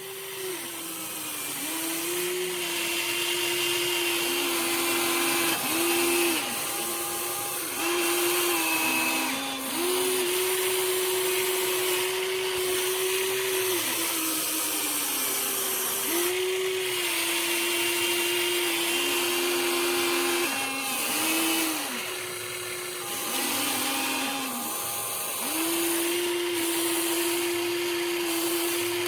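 Huina 1593 RC toy excavator's small electric motors and gearboxes whining as it works. The whine repeatedly dips lower in pitch and breaks off for a moment as the motors take load or different functions start and stop.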